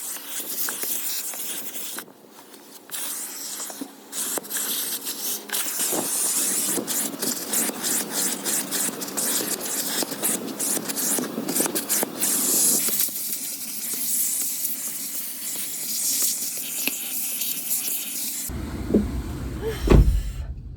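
Scraping and hissing with many small clicks, from sand being cleaned out of a car. About two seconds before the end it changes abruptly to low wind rumble on the microphone.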